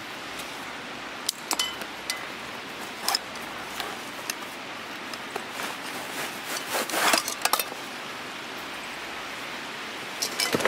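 Scattered light knocks, clicks and rustling, with a cluster of them about two-thirds of the way through, over a steady hiss.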